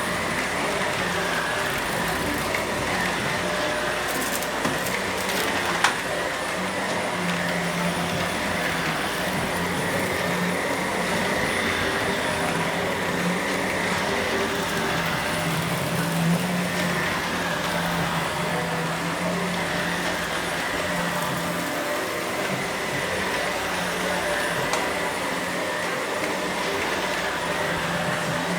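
Vacuum cleaner running continuously during vacuuming, a steady motor hum and airflow noise whose tone wavers slightly as it works; a single sharp click about six seconds in.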